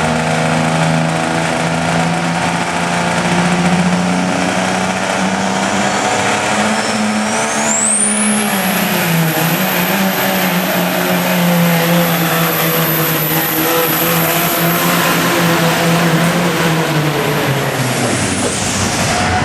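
Diesel pickup truck engine running hard under load in a truck pull. About eight seconds in, a high whistle rises and holds, typical of a turbocharger spooled up at full boost. Near the end the whistle and the engine both fall away as the throttle comes off.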